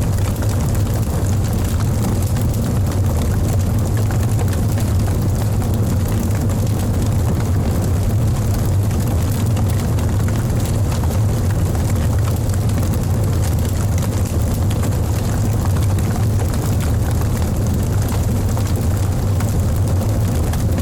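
Wood fire burning in a fireplace: a steady low roar with frequent small crackles and pops from the burning logs.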